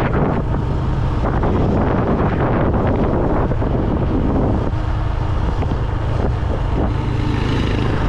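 Motorbike riding along at steady speed, its engine running under heavy wind buffeting on the helmet-mounted microphone.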